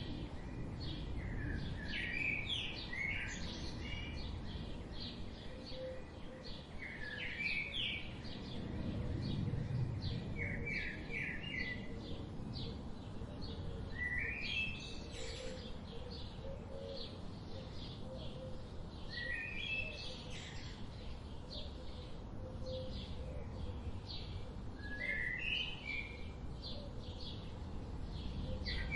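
Wild birds singing: one bird repeats a short phrase of three or four quick notes every few seconds, over constant faint chirping from others. A steady low rumble runs beneath.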